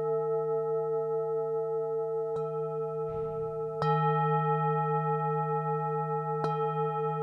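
Tibetan singing bowls ringing, a low hum under several higher steady tones that waver and pulse. They are struck three times: lightly a little over two seconds in, firmly near four seconds, and again near the end, each strike renewing the ring.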